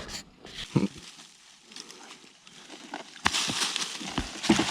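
Rustling and crackling with a few sharp knocks, getting louder about three seconds in, like movement through dry leaves and brush.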